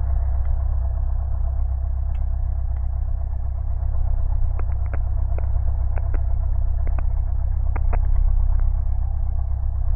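Light single-engine aircraft's piston engine and propeller running steadily at taxi power, heard inside the cockpit as a low drone, with a few faint clicks in the middle.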